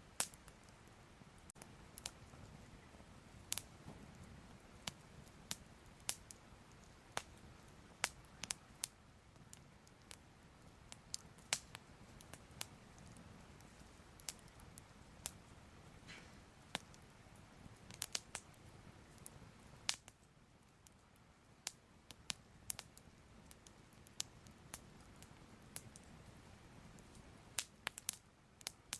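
Soft crackling fire: irregular sharp pops and crackles, sometimes several in quick succession, over a low, steady hush.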